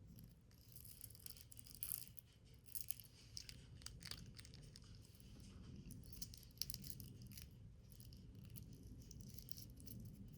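Faint handling of paper and card during box making: light rustling with scattered small ticks and taps, over a low steady hum.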